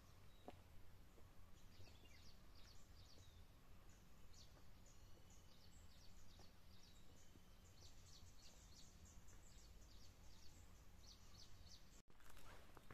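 Faint woodland birdsong: small birds chirping and twittering in short, scattered calls over a low, steady background hiss. Near the end, after a brief break, footsteps begin.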